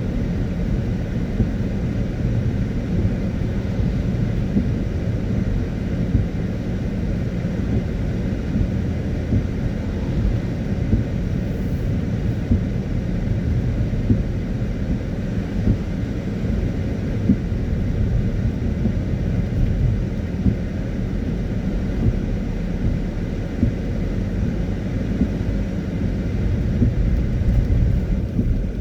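Steady rumble of a car driving on a wet road: tyre, road and engine noise, with a fainter hiss of the wet surface above it.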